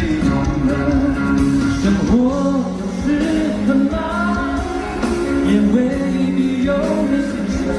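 Live pop music from a concert: a band playing a song, with a melody line gliding over steady accompaniment.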